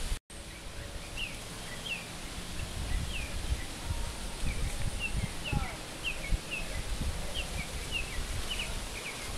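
A small bird chirping: short, high, downward-sliding calls, two or three a second, over a low rumble of wind and handling on the microphone.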